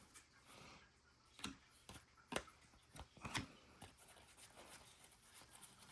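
Quiet handling of trading cards being flipped through by hand: a few faint taps and soft slides of card against card.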